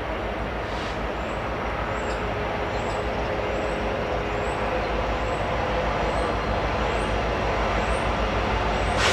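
Diesel freight train approaching in the distance: a steady low rumble that slowly grows louder. Faint high chirps repeat about once or twice a second over it.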